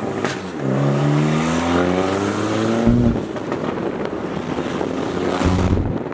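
Car engine accelerating hard, its pitch climbing steadily, then dropping abruptly about three seconds in at a gear change. It then pulls on at a lower, rougher note, with a short low surge near the end.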